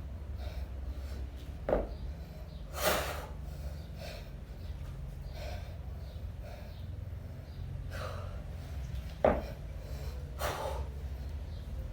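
A kettlebell lifter breathing out hard and sharply through the mouth and nose under effort, twice, each exhale coming about a second after a brief sharp knock.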